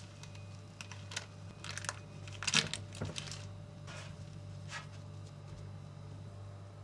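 A scatter of light clicks and taps, bunched around the middle and loudest about two and a half seconds in, over a steady low hum.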